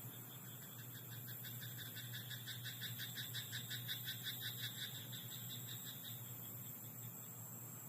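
Frogs croaking in a rice paddy: a rapid run of pulsed croaks, about six or seven a second, that swells through the middle and fades out about five seconds in, over a steady high drone.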